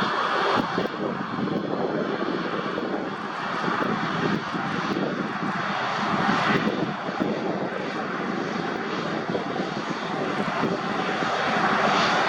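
Jet engines of an Airbus A330-300, its Rolls-Royce Trent 700 turbofans, running with a steady rushing noise that slowly grows louder toward the end.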